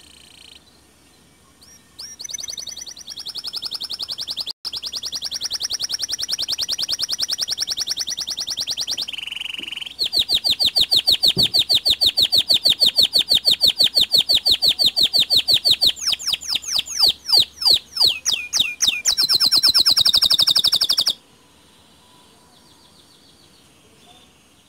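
A white canary singing a long song of fast, rapidly repeated high trills. About halfway through it changes phrase, and later it gives a run of quick falling notes before a final trill that stops suddenly a few seconds before the end.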